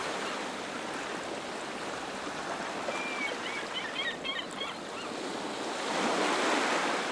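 Waves washing on the shore in a steady hiss, with a few faint high chirps about three to four seconds in.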